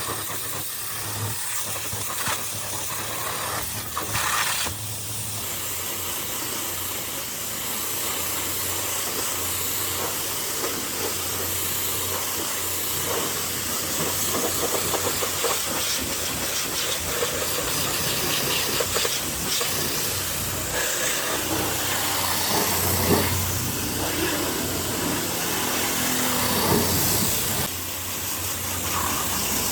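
Pressure washer spraying water, a steady loud hiss with the low hum of its pump motor underneath.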